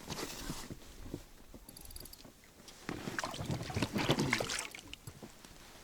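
Water splashing and knocking against the side of a small boat as a hooked pike is landed by hand, with rustling of handling.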